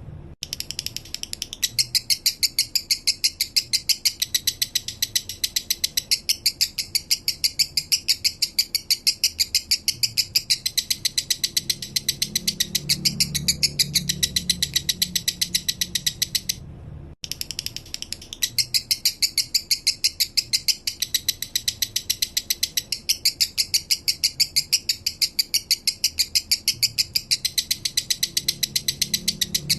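Male lovebird singing its 'minor' song: a fast, steady run of high chirping chips, about seven a second. It breaks off briefly about 17 seconds in, then the same passage starts over, as a looped recording.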